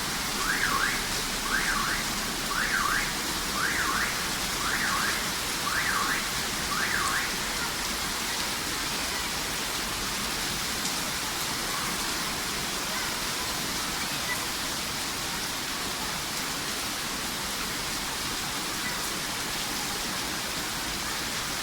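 Heavy rain falling steadily, with a car alarm going off in rising-and-falling whoops about once a second that stop about seven seconds in.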